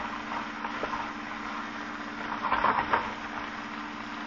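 Chicken pieces and sliced onions sizzling in a frying pan, with a utensil scraping and stirring in the pan in a short flurry a little past halfway. A steady low hum runs underneath.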